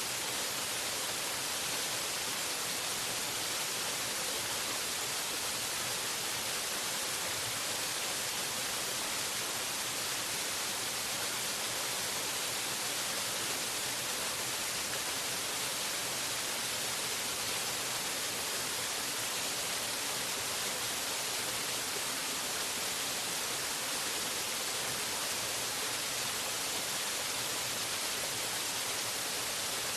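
Waterfall: a steady rush of falling water, an even, bright hiss that does not change.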